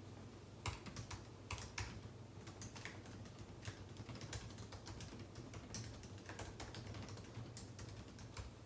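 Typing on a computer keyboard: an irregular run of key clicks that starts about a second in, over a steady low hum.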